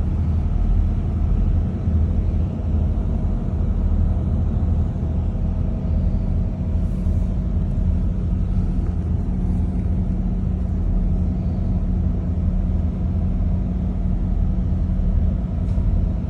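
A cruise boat's engines running steadily, a constant low drone with a steady hum.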